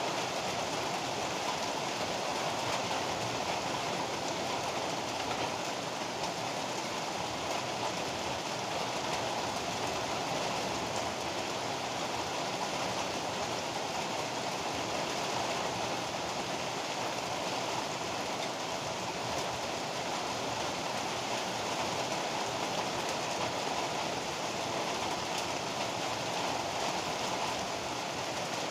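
Heavy rain pouring down in a steady, even hiss, with no thunderclap.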